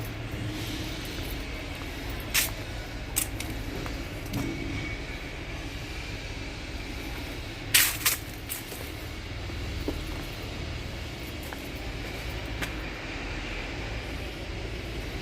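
Compactor garbage truck running steadily with a low rumble. A few sharp clanks are heard about two and three seconds in, and a louder double clank about eight seconds in.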